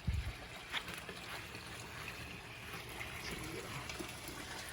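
Water running steadily down a koi pond's rock waterfall. A short low thump comes right at the start, and a click under a second in.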